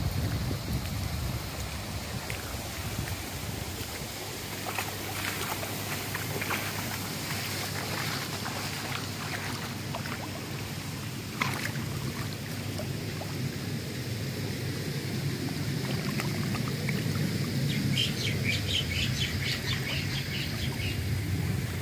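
Birds chirping over a steady low rumble. The chirps come scattered through the middle and in a quicker run near the end.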